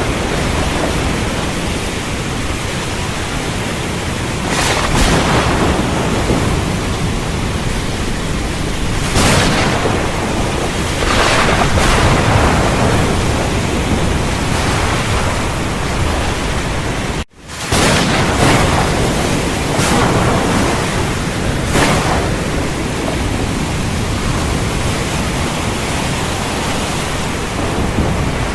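Heavy rain pouring steadily, with several brief sharp flares of louder noise that are close thunder cracks. The sound cuts out for an instant about two-thirds of the way through.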